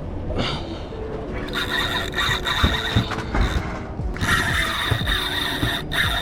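Spinning reel's drag squealing in two runs as a hooked striped bass pulls line off, over the low rumble of the boat.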